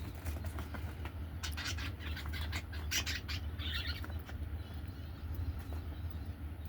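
Pet budgies chirping and chattering in a quick burst of sharp, high calls from about a second in to about four seconds in, over a steady low hum.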